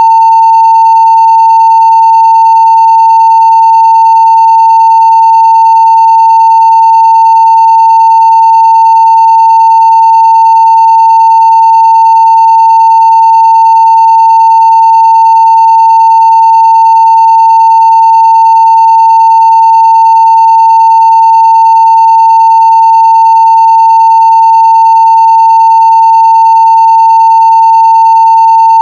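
Continuous 900 Hz sine-wave test tone at full level (0 dB), perfectly steady and unchanging, with only very faint higher overtones.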